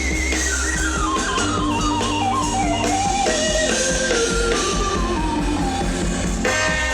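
A live band playing Ghanaian highlife-style gospel music, with guitar over steady bass and drums. A melodic lead line steps down in pitch through most of the passage, and a fresh bright chord comes in near the end.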